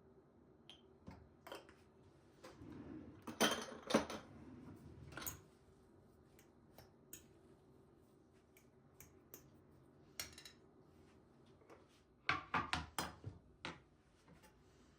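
Dishes and cutlery being handled: scattered clinks and knocks, with a cluster of louder clatters about three to four seconds in and another near the end.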